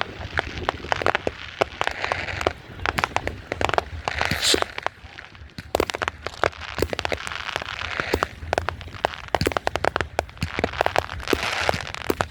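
Fireworks going off in a dense run of crackling pops and sharp reports, with a brief hiss about four seconds in.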